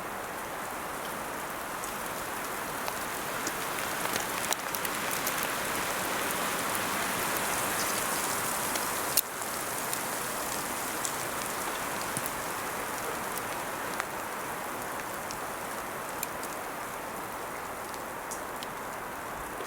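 Steady hiss of wet precipitation falling, with scattered sharp ticks of drops or pellets hitting surfaces; it swells a little partway through, and a single sharper click comes about nine seconds in.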